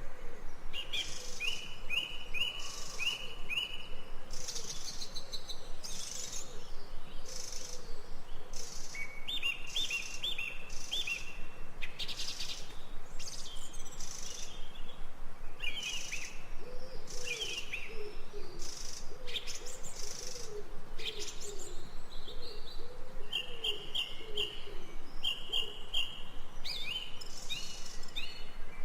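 Birdsong from a nature-sound track: several birds give repeated quick chirp series, with a run of lower calls in the middle.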